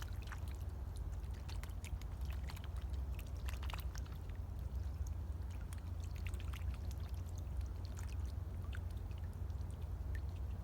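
Water trickling and dripping in small, scattered ticks at the edge of a lake, over a steady low rumble.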